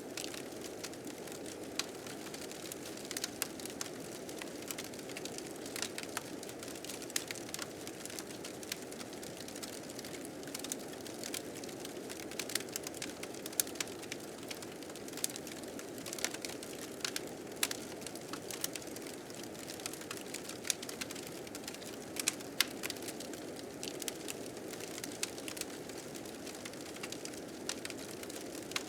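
A wood fire crackling, with frequent sharp, irregular pops, over the steady low rush of blizzard wind.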